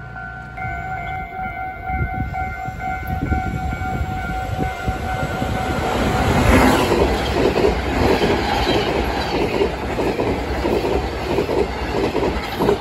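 Level-crossing warning bell ringing in a steady pulsing pattern. About six seconds in, a Taiwan Railways EMU1200 electric multiple unit passes close by, its wheels rolling and clattering over the crossing and drowning out the bell until the end.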